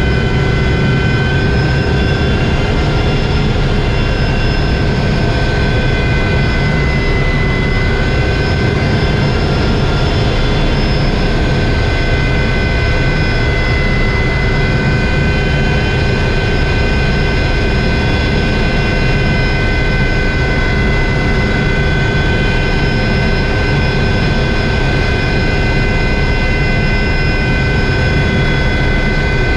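Helicopter engine and rotor running steadily: a dense low rumble with steady high-pitched whine tones over it.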